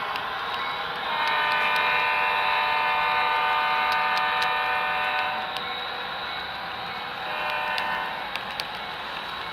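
Digital sound decoder in a model diesel locomotive sounding its multi-chime air horn: one long blast of about four seconds, then a short blast, part of the long-long-short-long grade-crossing signal, over a steady rumble with light clicking of wheels on the model track.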